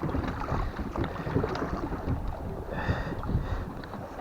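Wind buffeting the microphone over the water noise of a small rowing boat moving off, with a short high squeak about three seconds in.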